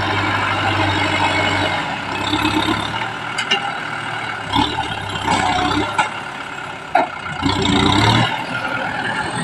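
Kubota M6040 tractor's diesel engine running under work. It is steady for the first couple of seconds, then rises and falls, with a few sharp knocks, about a third and about three quarters of the way in.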